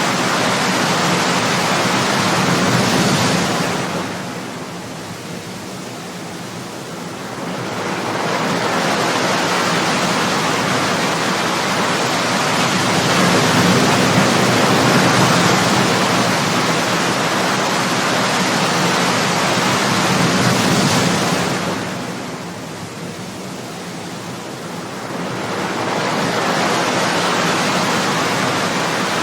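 Ocean surf: waves breaking and washing in as a steady rush, easing into a quieter lull twice, about four seconds in and again about twenty-two seconds in, before the next wave builds.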